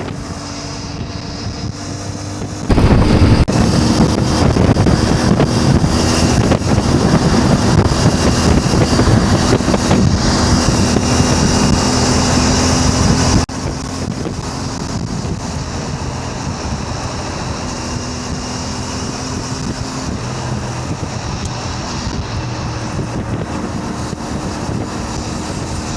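CF Moto 450 MT's parallel-twin engine running at a steady cruise, with wind rushing over the microphone. The wind is much louder from about three seconds in, then drops off suddenly about halfway through, leaving the engine hum and a lighter wind.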